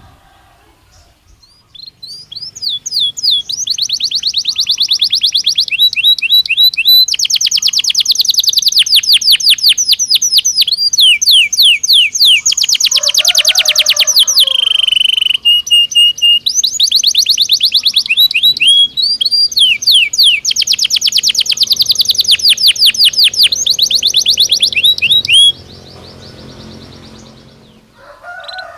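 A domestic canary (Belgian canary) singing: long, fast trills and rolls of rapidly repeated high notes, switching to a new trill every second or two, with a lower held note about halfway through. The song starts about two seconds in and drops away a few seconds before the end.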